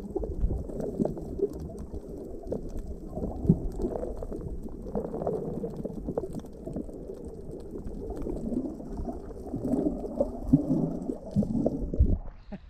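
Muffled underwater sound of water sloshing and gurgling around a submerged camera while snorkelling, a dull, irregular low rumble that drops away about twelve seconds in.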